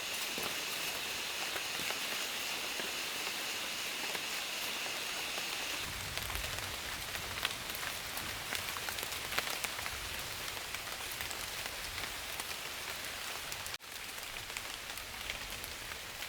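Steady rain falling, the hiss of it dotted with many small drop ticks. A steady high-pitched drone sounds with it and stops about six seconds in.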